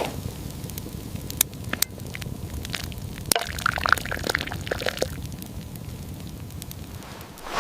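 Liquid sounds, like pouring or dripping, between about three and a half and five seconds in, over a low steady rumble with scattered sharp clicks.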